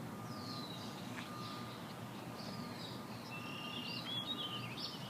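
Small birds chirping, with a busier run of calls in the last couple of seconds, over a steady low background hum.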